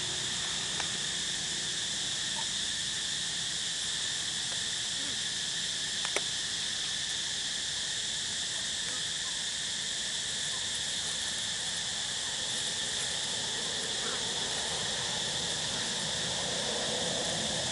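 Steady insect chorus, a continuous high-pitched drone, with one sharp click about six seconds in.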